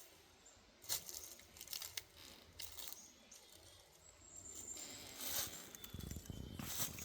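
Irregular rustling and crackling, dry and close, with a low rumble about six seconds in.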